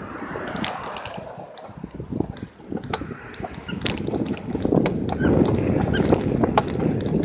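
Riding a bicycle: low rumble of wind and tyres with irregular clicks and rattles, the rumble growing louder about halfway through.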